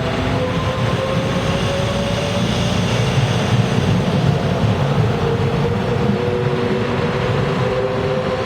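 Taiwan Railway electric multiple-unit local train running through the station: a steady low rumble with a thin motor whine that drifts slowly in pitch.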